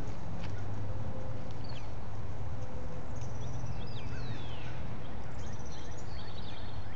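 Songbirds chirping and trilling, with one downward-sliding whistled note about four seconds in, over a steady low rumble.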